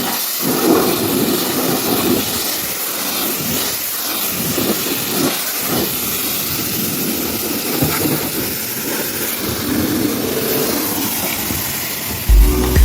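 Steady rushing hiss of a high-pressure water spray hitting the truck, with a few brief dips. Music with a strong beat comes in near the end.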